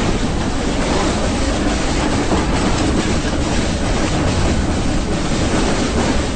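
Nilgiri Mountain Railway (Ooty toy train) running, a steady train noise with faint irregular clicks.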